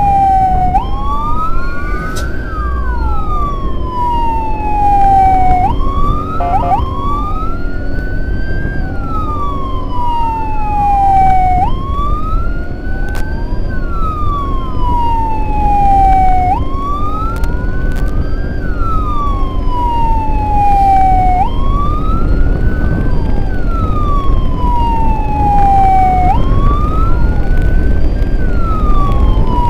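Emergency sirens wailing in a repeating cycle: each sweep rises quickly, then falls slowly, about every four to five seconds. A second, fainter siren runs out of step with the first. Underneath is a steady low rumble of road and wind noise.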